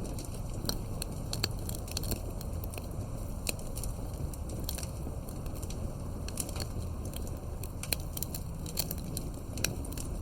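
Campfire crackling: firewood burning with irregular sharp pops and snaps, several a second, over a steady low rumble.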